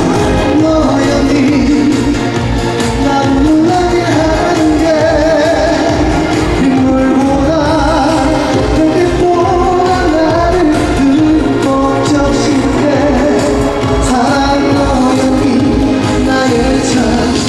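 Live pop band music at full volume, with a steady driving beat under a wavering, gliding lead melody line.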